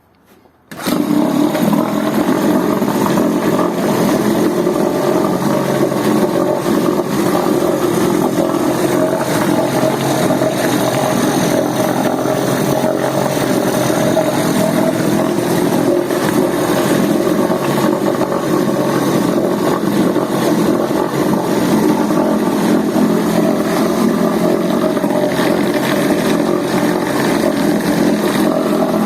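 Mercury 2.5 hp outboard motor starting about a second in, then running steadily.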